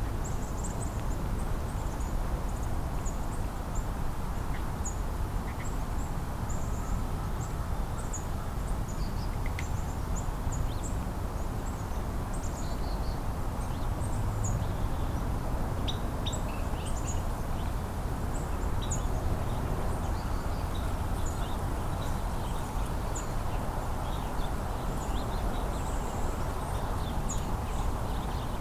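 Crows cawing among many short, high chirps of small birds, over a steady low rumble.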